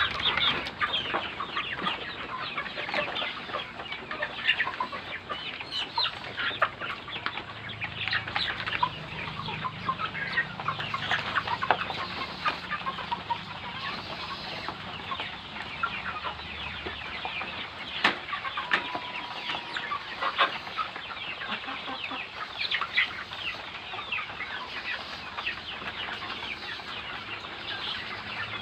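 A flock of native and heritage chickens clucking and calling, many short overlapping calls at once.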